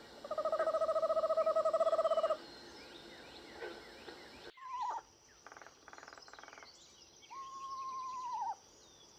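Eastern screech owl calling: a steady monotone trill for about two seconds, then, after a break, shorter calls and one longer note that drops in pitch at its end. Small bird chirps sound faintly behind it.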